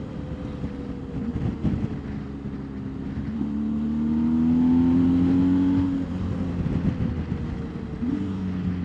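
BMW R1250GS boxer-twin engine under way on the road, with road and wind noise. About three seconds in its pitch rises as it accelerates, it grows louder, and it eases off after about six seconds.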